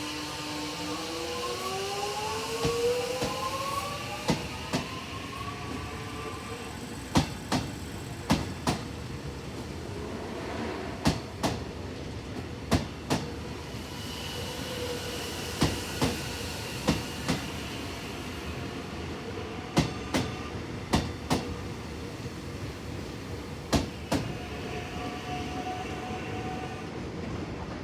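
Electric suburban train pulling out: its traction motors whine, rising in pitch over the first few seconds. Then its wheels click over rail joints in quick pairs, over and over, above a steady rumble.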